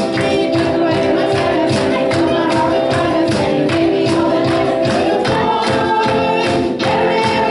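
Live gospel worship music: voices singing over instruments with a steady beat and tambourine.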